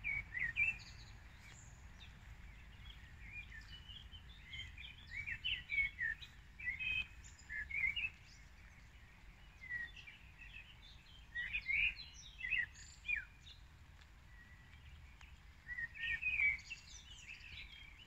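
Small birds chirping and singing, with short notes and quick rising and falling whistles coming in scattered bursts, over a steady low background rumble.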